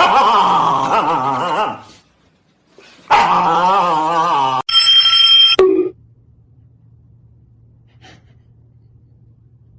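A dog howling in two long wavering cries, followed by a short ringing chime, then a faint low hum.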